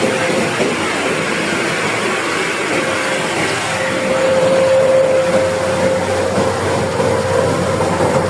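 Combine harvester running as it cuts rice paddy: a steady mechanical drone with a whining tone that swells a little about halfway through.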